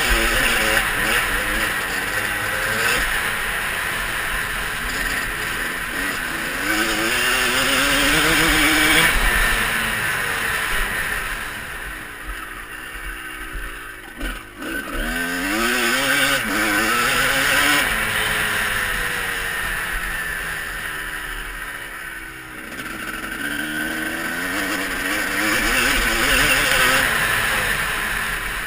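Motocross bike engine running hard, its pitch climbing and falling again and again as the throttle is opened and shut, with a brief drop about halfway through.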